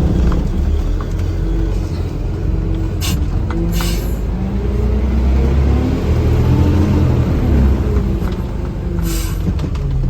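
Vehicle engine and road rumble heard from inside the cab while driving, with a changing engine drone. A few short hisses come about 3, 4 and 9 seconds in.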